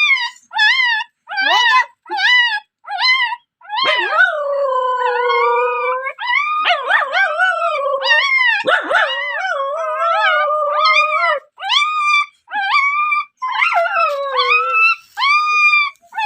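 A dog howling and yelping at a high pitch. A run of short yelps gives way to long, wavering howls that slide down in pitch, and short yelps return near the end.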